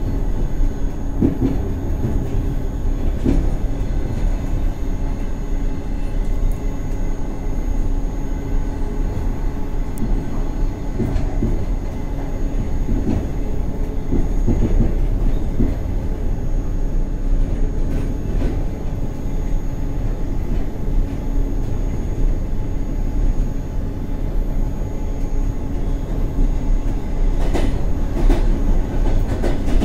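Train running along the track, heard from the cab: a steady low rumble with a faint hum and occasional knocks of the wheels over the rails.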